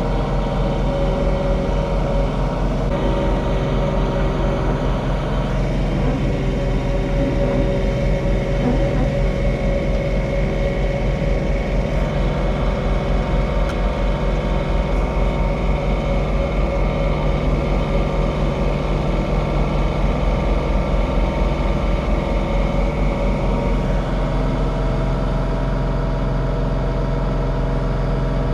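John Deere 3046R tractor's three-cylinder diesel engine running steadily at about 2050 RPM while powering its snowblower.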